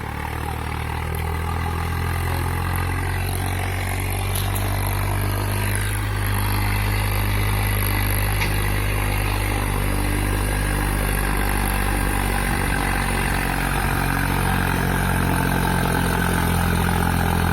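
Swaraj 742 tractor's diesel engine running steadily, growing a little louder over the first few seconds.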